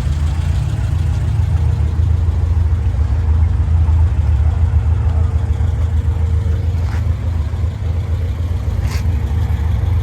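A car engine idling with a steady low rumble, and two short clicks near the end.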